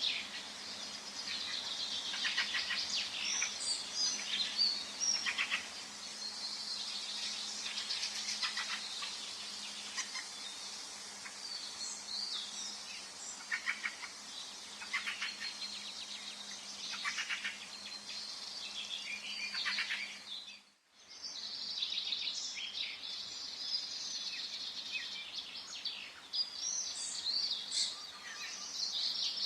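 Forest ambience: several songbirds chirping and trilling over a steady faint background hiss. The whole sound briefly cuts out about two-thirds of the way through, then resumes.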